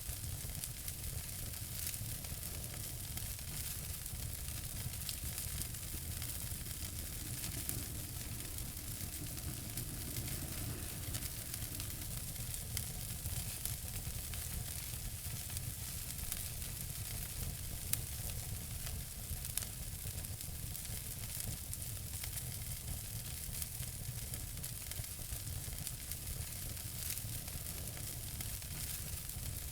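Fire in a fireplace crackling and hissing steadily, with scattered small pops and a couple of sharper pops a little past halfway.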